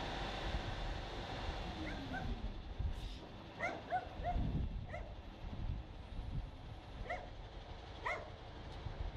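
A dog yipping in about eight short barks, most of them bunched in the middle, over a low engine rumble.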